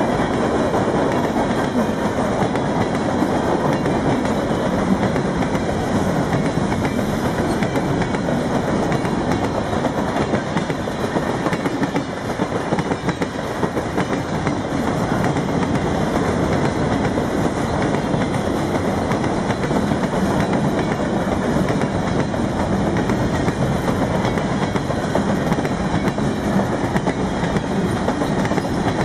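New England Central Railroad freight train's boxcars rolling past close by: a steady, loud noise of steel wheels running over the rails.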